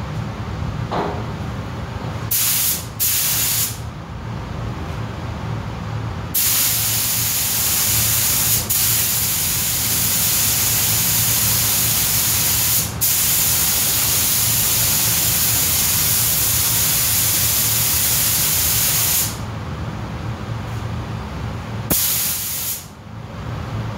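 Pneumatic paint spray gun spraying a coat onto car body parts: a few short squirts of hissing air, then one long continuous pass of about thirteen seconds broken twice briefly, and a last short squirt near the end.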